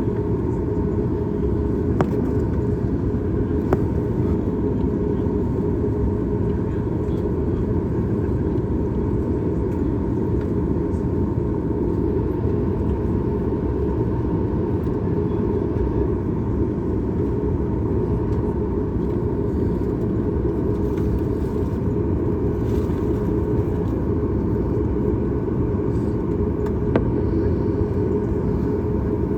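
Steady cabin noise inside a Boeing 737 MAX 8 airliner: an even, deep rumble of engines and airflow with a faint steady tone above it, and a few light clicks.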